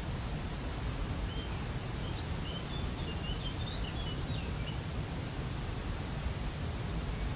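Waterfall rushing steadily, deepest at the low end, with a small bird singing a quick twittering phrase of short chirps from about a second in until about five seconds in.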